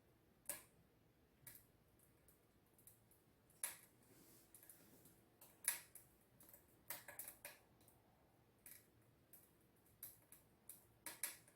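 Faint, irregular crackles and pops of a kindling-and-wood fire burning inside a closed wood stove, about one or two a second over near silence.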